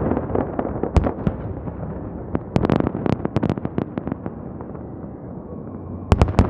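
Aerial fireworks salute: sharp bangs of shells bursting, one about a second in, a rapid cluster in the middle and two more near the end, over a continuous rolling rumble of echoing booms.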